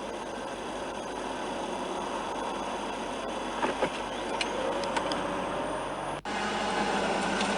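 Steady road and traffic noise of cars driving, with a few faint clicks. The sound cuts out briefly about six seconds in and resumes a little louder.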